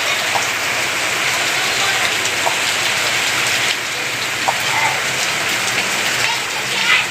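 Steady rain falling, an even hiss with a few faint scattered taps.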